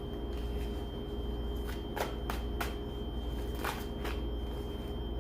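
Tarot cards being shuffled and handled, a few sharp card snaps and clicks about two to four seconds in, over a steady background hum.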